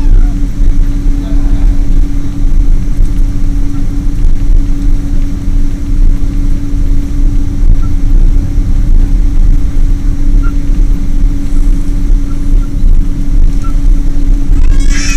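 Boeing 777 jet engines and airflow making a loud, steady low rumble with a constant droning hum underneath.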